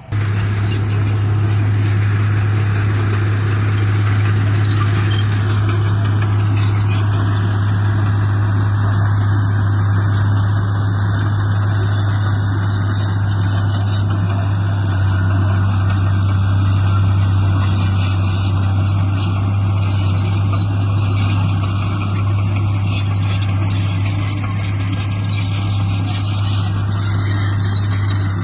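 Heavy diesel engine of earthmoving equipment running steadily under work, with a deep, constant hum.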